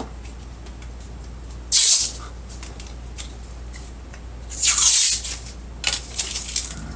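Protective plastic film being peeled off a sheet of plexiglass: short hissing rips, two loud ones about three seconds apart, then a few shorter, softer ones near the end.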